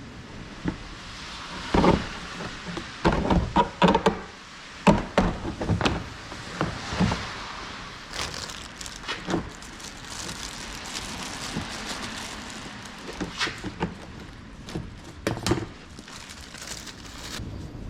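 Irregular knocks and clatter of tools and metal parts being handled during suspension work, with a cluster of louder knocks a few seconds in and lighter clicks after.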